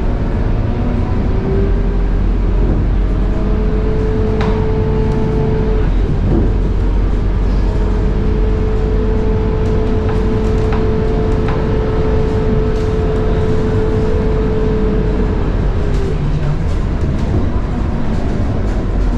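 Scania K230UB bus under way: the DC9 diesel engine and ZF Ecomat 6HP504C automatic gearbox running with a constant low rumble. A steady high-pitched gearbox whine runs over it, breaks off briefly about six seconds in and stops near sixteen seconds. A few sharp rattles come through.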